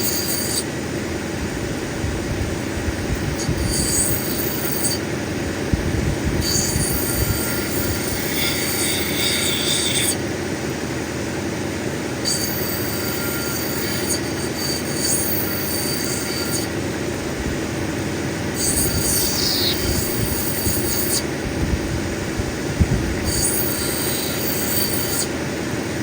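Cabbing machine's grinding wheel running steadily, with a high scraping squeal each time the opal is pressed against the wheel, in about six passes of two to four seconds each.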